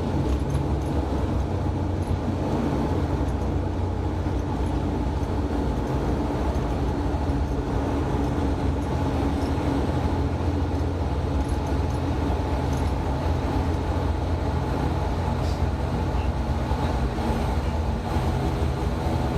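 Cabin noise of an ATR 72-600 turboprop airliner during landing: its twin Pratt & Whitney PW127M turboprops and propellers give a steady, loud drone with a low hum, heard from inside the cabin.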